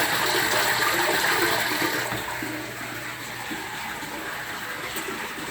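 Water rushing and splashing into an open-topped aquarium from a Fluval FX6 canister filter's return outflow. The noise is louder at first and drops off about two seconds in.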